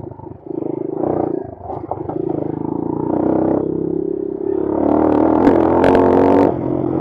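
Bashan Brozz 250 dual-sport motorcycle engine running under throttle while being ridden. It revs up and grows louder about five seconds in, with a few sharp clicks, then drops back near the end.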